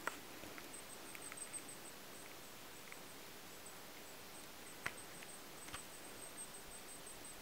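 Quiet winter forest ambience with a few faint, short bird chirps scattered through it, the loudest a little under five seconds in.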